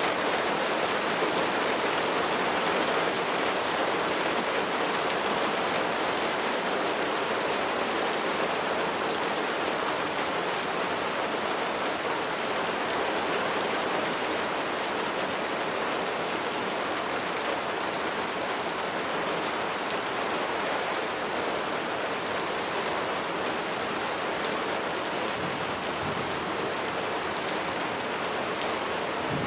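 Steady rain falling, with a continuous hiss and the patter of drops on a surface.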